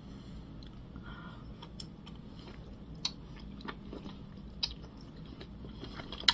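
A person chewing a mouthful of food close to the microphone, with a few sharp clicks.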